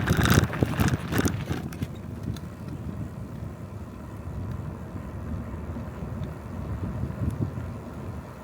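Riding noise from a moving bicycle: wind buffeting the microphone and a low rumble from the tyres on the road. It is loud and gusty with knocks for the first two seconds, then settles into a steadier low rumble.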